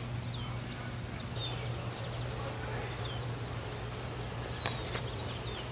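Outdoor park ambience: small birds chirping now and then over a steady low hum.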